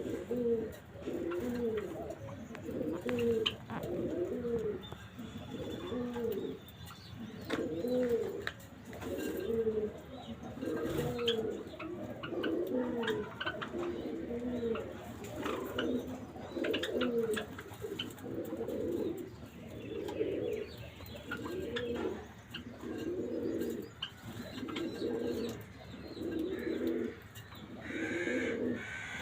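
Pigeons cooing: the same low coo repeated steadily about once every second and a bit, with faint high chirps from Java sparrows.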